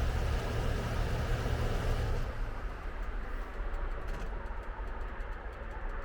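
A steady low rumble for about the first two seconds, then a sudden change to a bonfire crackling with many small sharp pops.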